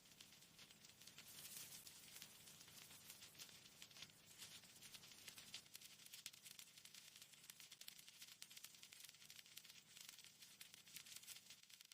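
Faint, steady crackling and rustling noise made of many fine clicks over a hiss.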